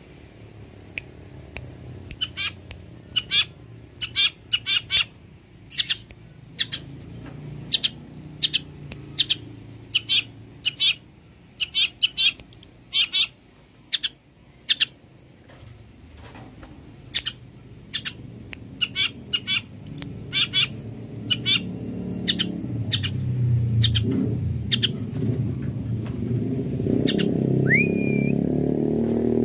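Long-tailed shrike (cendet) giving a long series of short, sharp calls, about one to three a second, with a brief rising whistle near the end. A low rumbling noise grows louder underneath in the second half.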